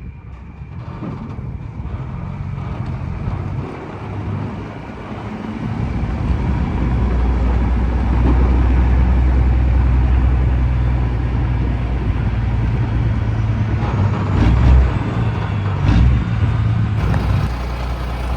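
Detroit Series 60 diesel engine of a Peterbilt 389 glider running as the truck drives, its steady low note growing louder about six seconds in and holding there, with a couple of short knocks near the end.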